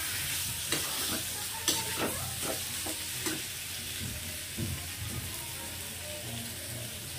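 Boiled potato chunks sizzling in hot oil and spice masala in a kadhai. A perforated steel ladle scrapes and knocks against the pan several times in the first three seconds or so, then the steady sizzle goes on alone.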